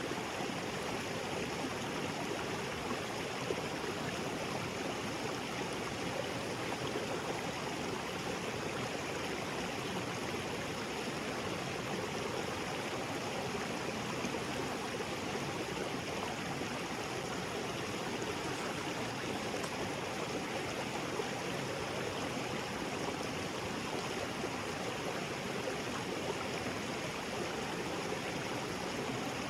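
Small waterfall spilling into a rocky jungle creek: a steady, even rush of falling and flowing water.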